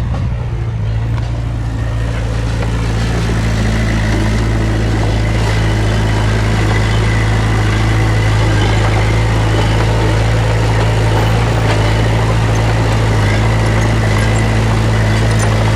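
Heavy diesel engine of earth-moving machinery running steadily at a constant speed, slightly louder after the first couple of seconds.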